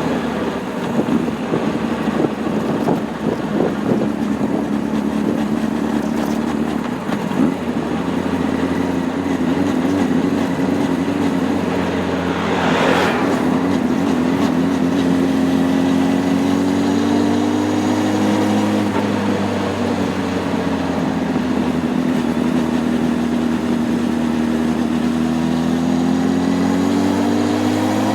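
Honda CB600F Hornet's inline-four engine running under way, its pitch holding steady, then climbing, dropping sharply about two-thirds of the way through and climbing again near the end. A brief whoosh comes about halfway through.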